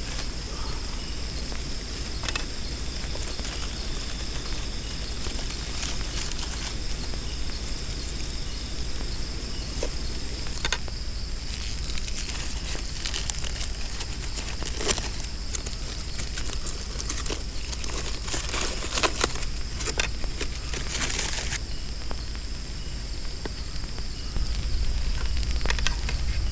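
Steady high-pitched jungle insect drone, with scattered crackles and small clicks, densest over the second half and stopping a few seconds before the end.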